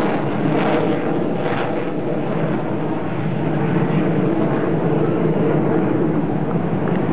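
Aircraft engine noise: a loud, steady rumble from a plane in flight.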